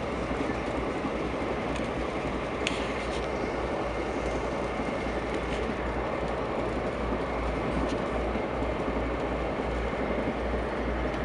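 Steady rumble of a VIA Rail LRC passenger coach running at speed, heard from inside the car: wheels on the rails, with a few faint clicks.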